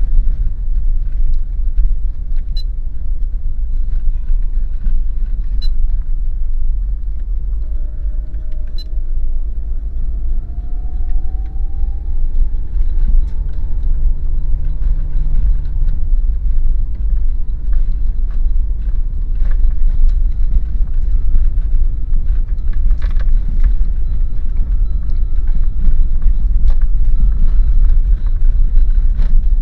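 Daihatsu Terios SUV driving, a steady low road and engine rumble. Near the middle a faint whine rises in pitch for a few seconds, then holds.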